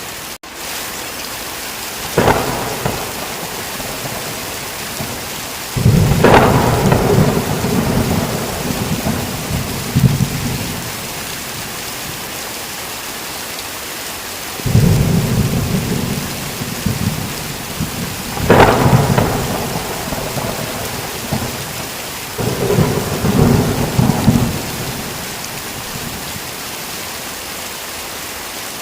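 Heavy rain falling steadily, with several peals of thunder: sharp cracks that roll off into long, low rumbles, each lasting a few seconds.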